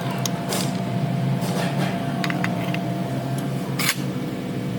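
A vehicle's steady low running drone, with a few short clicks and knocks; the sharpest comes near the end.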